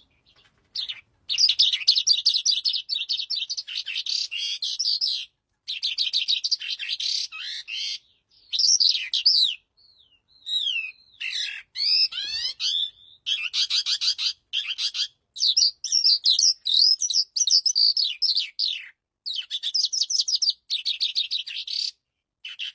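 Calandra lark singing a long, varied song: rapid chattering trills and quick rising and falling whistled notes, delivered in bursts broken by brief pauses.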